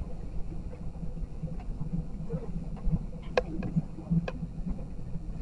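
Regional train running along the line, heard from inside the carriage as a steady low rumble, with two sharp clicks a little over halfway through.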